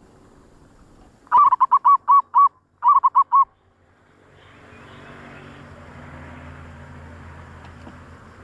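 Zebra dove (perkutut) calling: a quick run of about six short, clipped coos, a brief pause, then four more. After that comes a steady hiss with a low hum.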